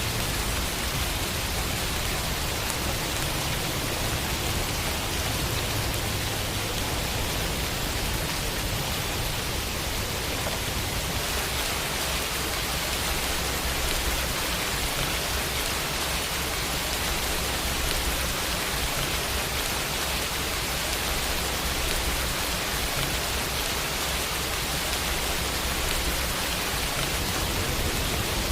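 Steady rainfall pattering on a window pane, an even hiss with no thunder.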